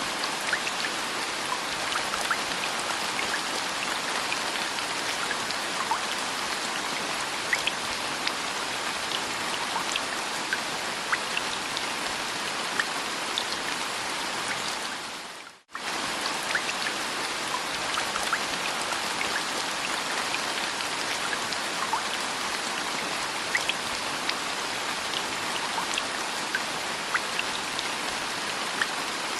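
Steady rain, with many individual drops heard as small ticks over an even hiss. About halfway through it cuts out for a split second and picks up again, like the seam of a looped rain recording.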